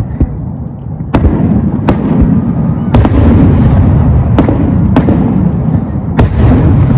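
Aerial fireworks bursting in quick succession: sharp booms and cracks about a second apart over a continuous low rumble.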